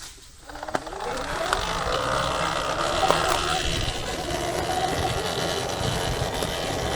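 Surron Ultra Bee electric dirt bike pulling away: its electric motor whine rises in pitch from about half a second in, then holds steady as the bike rolls along, with tyre and trail noise underneath.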